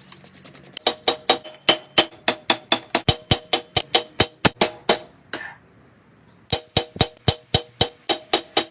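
Blacksmith's hammer striking steel on an anvil in a fast, even rhythm of about four to five blows a second, each with a metallic ring. There is a pause of about a second and a half midway, with one brief hiss, before the hammering resumes.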